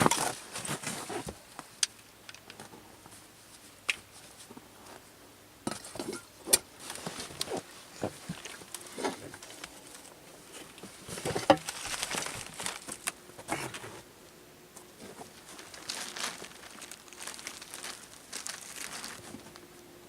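Irregular rustling and crinkling, with scattered sharp clicks and knocks coming in uneven clusters.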